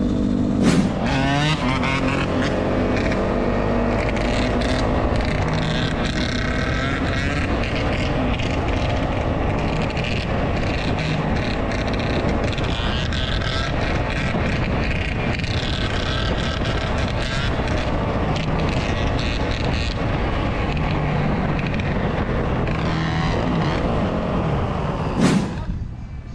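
Dirt-bike engines running and revving, with rising pitch glides early on, holding steady before the sound drops away suddenly near the end.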